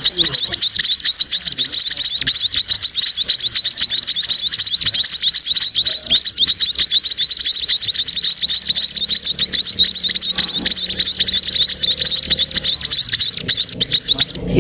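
Sparrow nestlings giving shrill begging calls: a rapid, unbroken stream of short, high chirps, several a second, that cuts off abruptly near the end.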